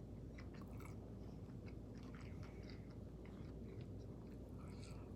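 Close-miked chewing and mouth sounds: a person chewing food, with scattered soft wet smacks and clicks over a steady low hum.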